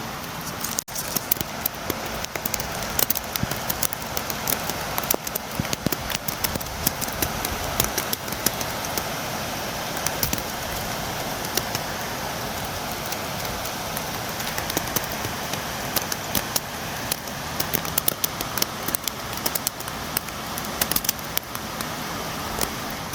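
Steady rain with a dense run of sharp drop taps, rain beating against a window.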